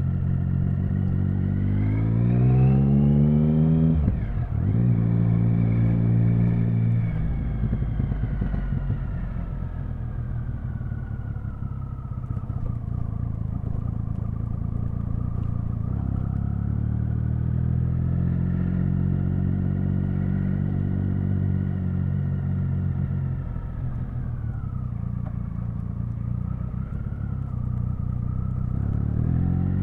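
Triumph Speed Triple 1050's inline three-cylinder engine under way: it revs up about two seconds in and drops sharply at a shift around four seconds, then eases off and pulls again several times, its pitch rising and falling with the throttle.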